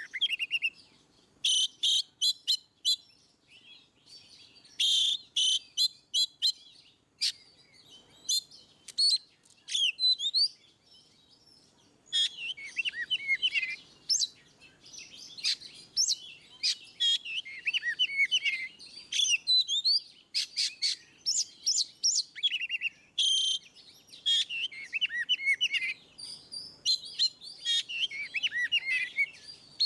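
Oriental magpie-robin (kacer) in full, loud song: rapid varied whistled phrases mixed with sharp clicking chirps, delivered in bursts with short pauses.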